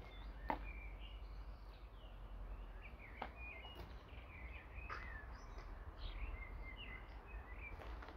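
Songbirds chirping and twittering throughout, with a few sharp clicks breaking in now and then over a steady low rumble.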